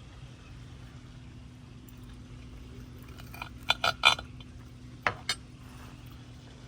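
Cutlery clinking against a plate while eating: three quick clinks about halfway through, then two more a second later, over a steady low hum.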